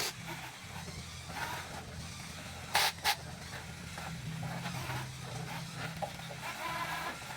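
Low steady hum of small electric motors, with two sharp clacks close together about three seconds in.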